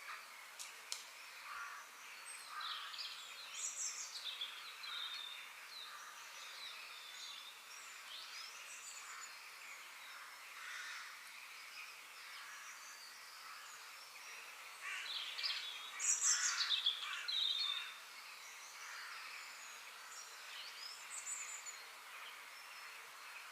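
Several birds chirping and calling in short phrases over a faint steady background hiss, with a louder burst of song about sixteen seconds in.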